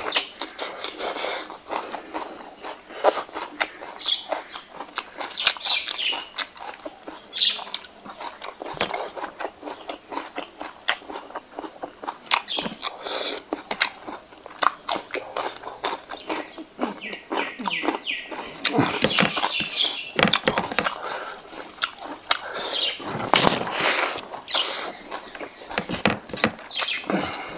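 A person chewing a mouthful of fried pork, rice and raw onion with the mouth open, giving irregular wet smacks, clicks and crunches.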